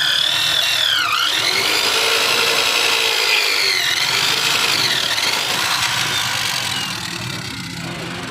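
Electric drill boring a hole in a steel truck chassis rail: a high motor whine that dips in pitch several times as the bit bites and bogs under load, then recovers, easing off near the end.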